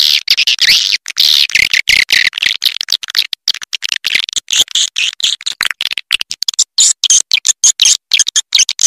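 Recorded edible-nest swiftlet calls: dense, high twittering and chirping chopped by frequent abrupt gaps, an edited roosting-call track of the kind played to draw swiftlets into nest houses.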